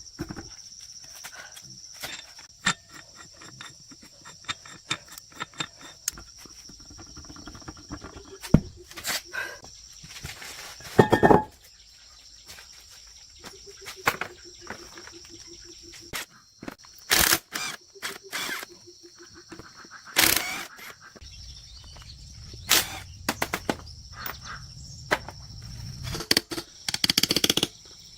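Irregular sharp clicks and knocks of hand work, over a steady high-pitched insect-like tone, with brief low hums and a low rumble near the end.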